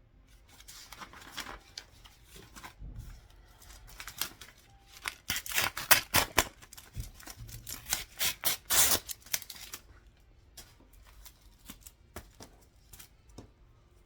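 Sheets of paper being handled, rustling and crackling, with a dense run of crisp strokes about five seconds in that lasts several seconds, then a few light ticks.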